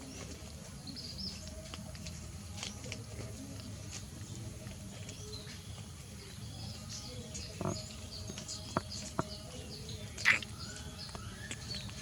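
Scattered short high animal chirps over steady low background noise, with a few sharp clicks between about eight and ten seconds in, the loudest just after ten seconds.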